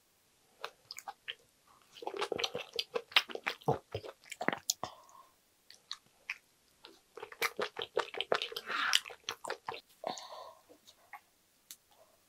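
Close-up chewing of spicy stir-fried pork intestines (gopchang) and glass noodles: wet smacking and chewing clicks in two bouts, one starting about two seconds in and another about seven seconds in.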